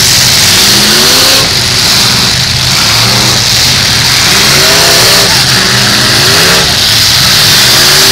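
Several eight-cylinder demolition-derby cars running hard together through open exhaust pipes, their engines revving up and down against one another.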